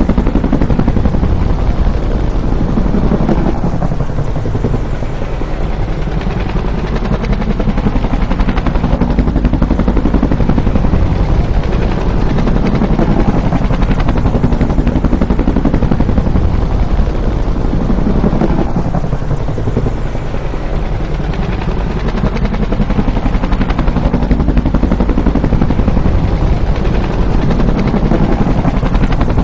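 Bell UH-1 Huey helicopter flying by, with a loud, continuous thump of the rotor blades and turbine noise. The sound eases off twice and swells back up.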